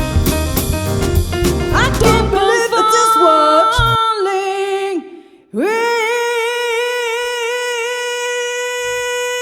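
Soul-jazz band with drum kit and piano playing, cutting off about two seconds in. A singer carries on unaccompanied, holding a few notes, then after a short break scoops up into one long, high held note.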